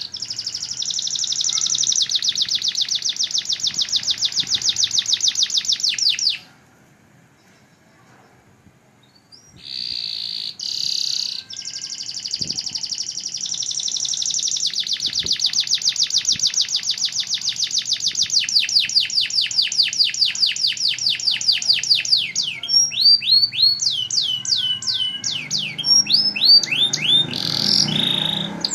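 Domestic canary singing: long, fast trills of rapidly repeated high notes, broken by a pause of about three seconds a third of the way in, then a long trill that ends in a series of separate down-sweeping whistles.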